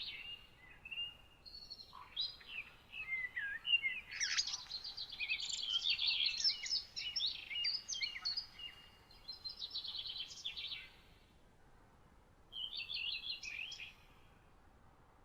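Songbirds singing: several bursts of quick, high chirping phrases, overlapping and busiest from about four to eleven seconds in, with one short last phrase a little before the end, over a faint steady hiss.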